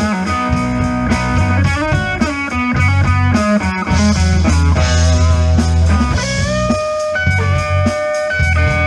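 Live country-rock band playing an instrumental break: an electric guitar plays the lead over bass and drums, holding bent notes from about two-thirds of the way through.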